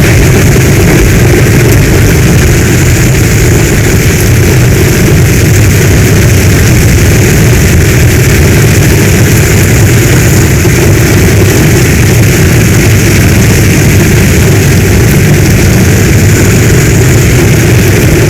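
Heavy storm rain falling steadily: a loud, even hiss over a deep low rumble, with no breaks.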